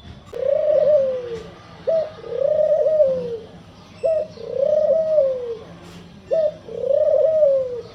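Dove cooing: four long coos about two seconds apart, each arching and then sliding down in pitch. The last three coos are each led by a short clipped note.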